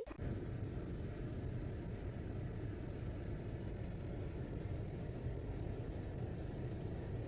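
A steady low rumble of noise with no distinct events, starting abruptly and running evenly throughout.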